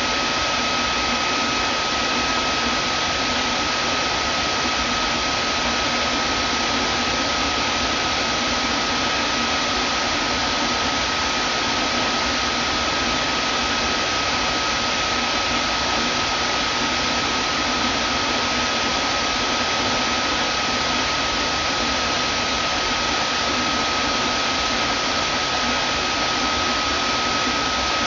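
Vacuum cleaner motor running steadily: an even rush of air with a steady high-pitched whine on top.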